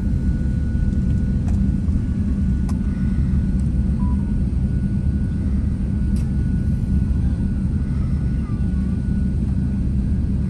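Steady low rumble of airliner jet engines, with a faint steady high whine.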